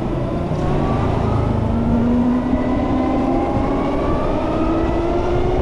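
Harley-Davidson LiveWire electric motorcycle's motor whine, rising steadily in pitch as the bike accelerates, over a low rumble of wind and road noise.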